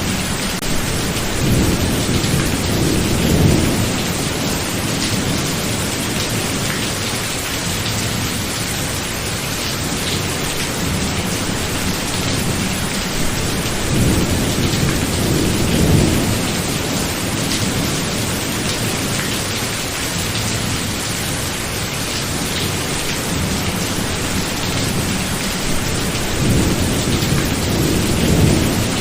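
Steady heavy rain with thunder rumbling three times: near the start, about halfway through, and near the end.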